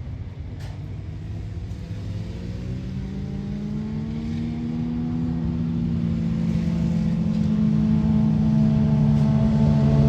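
Motorcycle engine whose note rises in pitch over a few seconds, then holds steady while growing steadily louder.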